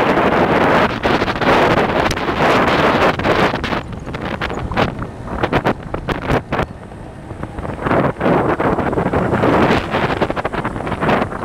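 Heavy wind buffeting on the microphone, gusting and easing unevenly over a vehicle's running noise, with a quieter lull about six to seven seconds in.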